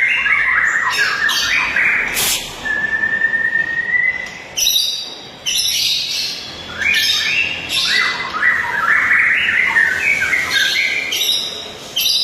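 White-rumped shama singing a loud, varied song: quick runs of mixed notes, a long rising whistle about three seconds in, then more fast phrases of varied notes.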